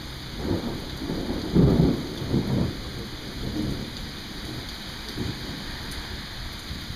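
Rolling thunder over steady rain: a run of low rumbles that swells to its loudest about a second and a half in and dies away by about four seconds, with a fainter rumble about five seconds in.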